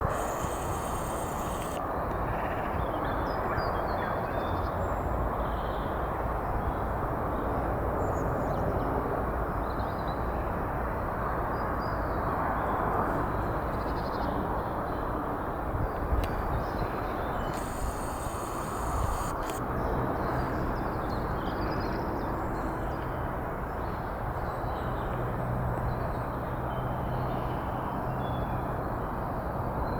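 Outdoor heathland ambience: a steady low rushing noise with faint bird calls scattered through it. A low steady hum joins about two-thirds of the way in.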